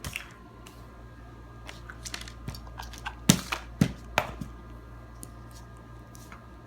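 Light plastic clicks and knocks from a Play-Doh tub being handled, the loudest three about three to four seconds in, over a steady low hum.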